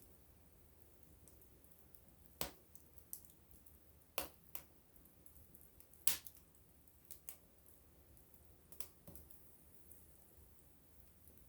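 Small wood campfire crackling: a handful of sharp, irregular pops, the loudest about six seconds in, over a faint low hiss.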